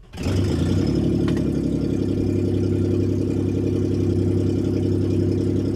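Toyota 4Runner engine with no exhaust system fitted, catching right at the start and then idling steadily and loud.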